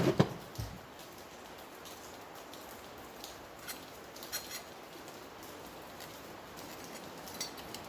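Small metal parts of a chainsaw muffler (the plate and gasket) being handled. There is a sharp clatter right at the start, then a few faint ticks and scrapes over a steady low hiss.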